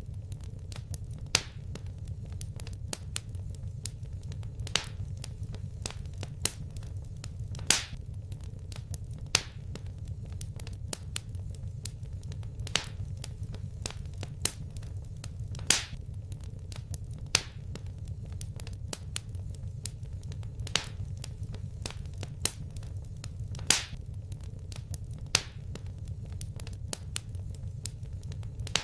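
Wood fire in a fireplace crackling: sharp pops about every one and a half to two seconds over a steady low rumble.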